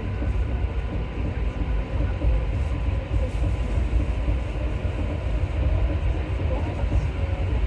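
Paris Métro MP14 rubber-tyred train running through the tunnel, heard from inside the car: a steady low rumble with a faint steady whine.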